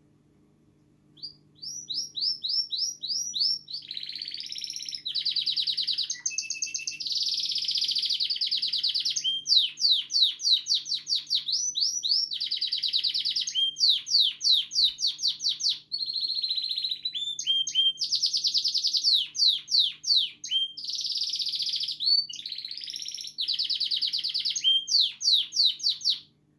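Domestic canary singing a long, continuous song of fast trills and rapid runs of repeated sweeping notes, starting about a second in; a canary's song is taken as a sign that he is happy and healthy.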